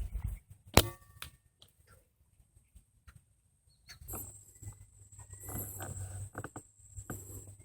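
A single sharp gunshot about a second in, followed by a brief metallic ring. Later comes several seconds of rustling and handling noise.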